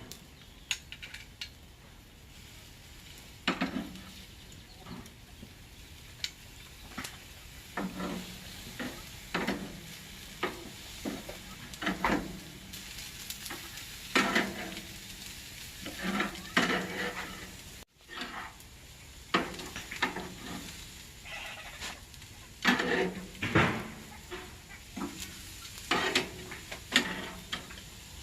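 Meat sizzling on a barbecue grill, with irregular clinks and scrapes of metal cooking utensils against the grate as the meat is turned.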